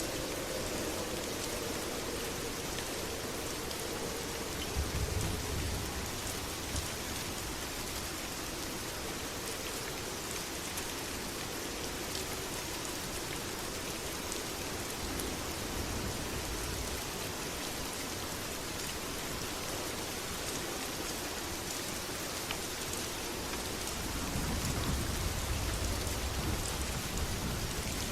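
Steady heavy rain with scattered drop ticks, and low rumbles of distant thunder about five seconds in and again near the end.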